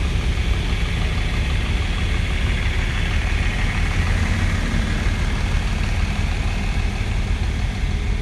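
Antique tractor engine running steadily at low speed, a continuous low rumble.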